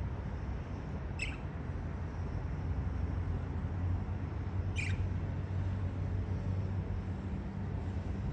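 Two short, high budgerigar chirps, each falling in pitch, about a second in and again about three and a half seconds later, over a steady low hum.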